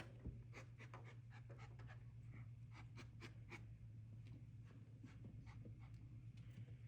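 Near silence: room tone with a steady low hum and faint, scattered soft ticks and rustles.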